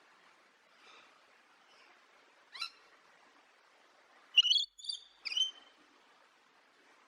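A songbird calling: a faint call, a short sharp call about two and a half seconds in, then a quick run of loud, high chirps a little past the middle.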